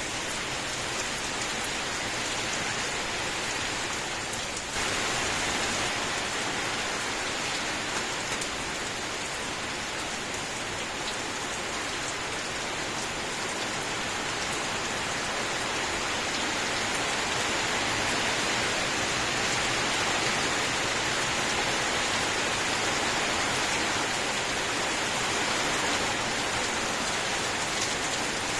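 Steady rain falling, an even hiss of many drops, with a sudden small jump in loudness about five seconds in.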